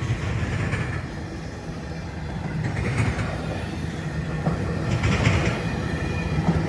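Freight train cars rolling past: a steady rumble of steel wheels on rail, with brief louder, higher patches about three and five seconds in.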